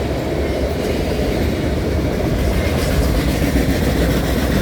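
Loaded autorack cars of a freight train rolling past at speed: a steady rumble of steel wheels on the rails.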